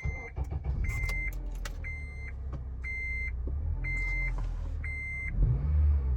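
Car engine just started and idling with a low, steady note that rises briefly near the end, while a dashboard warning chime beeps about once a second. The exhaust is still the quiet stock setup, before new pipes go on.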